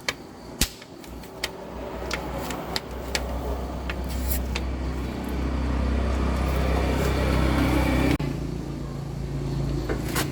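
Dump truck engine running steadily, with several sharp metallic clicks in the first few seconds. About eight seconds in the sound changes abruptly to a quieter, steady hum.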